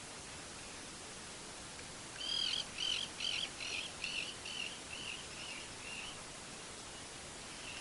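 A songbird singing one phrase of about a dozen evenly spaced, repeated high notes, starting about two seconds in and fading away after about four seconds.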